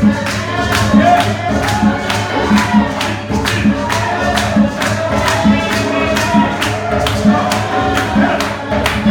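Gospel music with singing voices over a steady low drum beat of about one hit a second and a shaken tambourine.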